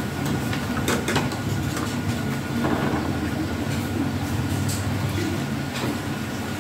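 A steady low mechanical hum with scattered light clicks and knocks.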